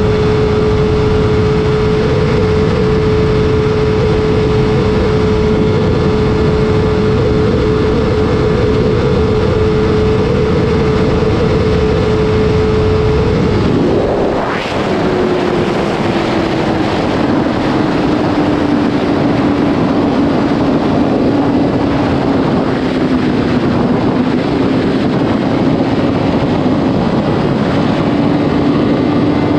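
Sport motorcycle engine running at a steady high speed under heavy wind noise. About halfway through its note drops and then slowly sinks further as the bike eases off.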